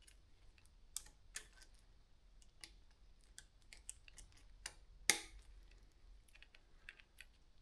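Scattered small clicks and taps of hands and a tool working on a bicycle chain, fitting the connecting link's retaining clip, with one sharper click about five seconds in.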